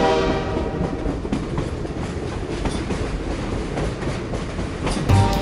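Train running on rails: a steady rumble with faint, regular clickety-clack. A horn sounds at the start and fades within about a second. Music starts just before the end.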